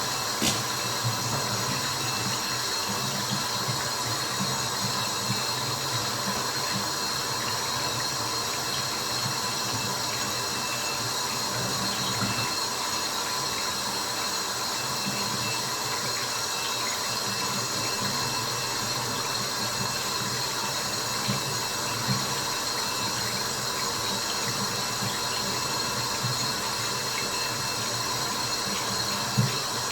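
Water drops falling over a steady watery hiss, with a few drips standing out louder than the rest.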